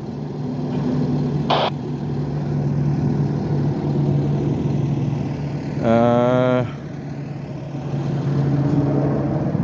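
Idling street traffic with a steady low engine hum, and one car horn blast of under a second about six seconds in.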